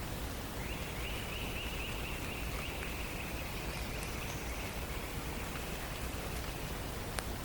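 A songbird singing one long, even trill, a little over five seconds long, that starts about half a second in and drifts slightly lower in pitch, over a steady rain-like hiss. A single sharp tick near the end.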